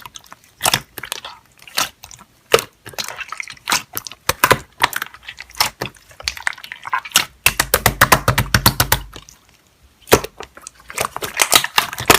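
An irregular series of sharp clicks and taps, with a brief low rumble under a quick run of taps about two-thirds of the way in.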